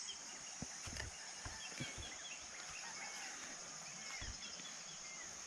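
Insects trilling steadily at a high pitch, with many short bird chirps scattered over it and a few soft low thumps.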